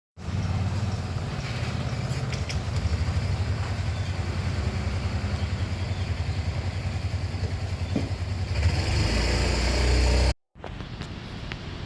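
Train running on the track, a steady rumble with a fast rattling texture that swells near the end and cuts off suddenly.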